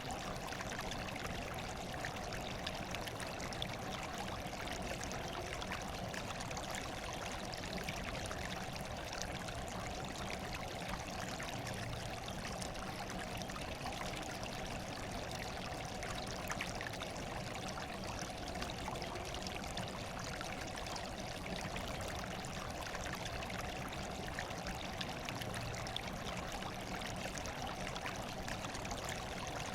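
Running water trickling and splashing steadily, an unchanging natural water noise.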